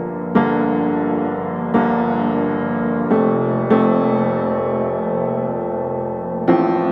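Background piano music: slow sustained chords, a new one struck about every second or two and left ringing.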